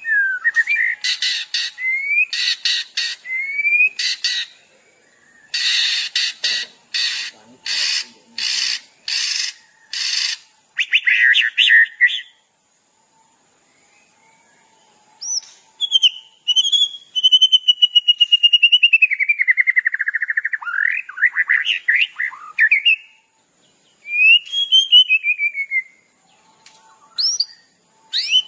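Recorded songbird song of the kind used as a masteran (song-training track). Repeated rising whistles come first, then a run of harsh rasping notes about two a second. After a short pause there is a long, fast trill that drops in pitch and climbs back, and near the end a few falling whistles.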